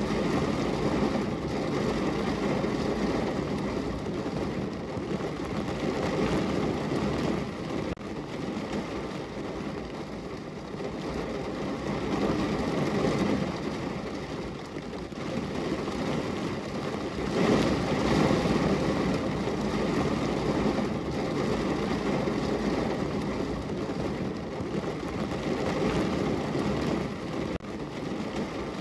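Rain falling on and around a window: a steady rushing noise, fullest in the low range, that swells and eases every few seconds.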